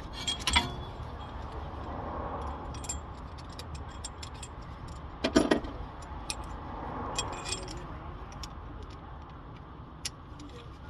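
Metal brake caliper piston tool parts clinking and rattling as they are handled, with several sharp metallic clinks, the loudest about five seconds in, over a steady low rumble of traffic.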